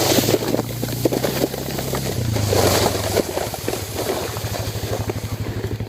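Four-wheeler (ATV) engine running. Its pitch drops about two seconds in as it slows, and it settles into an even, rapidly pulsing idle.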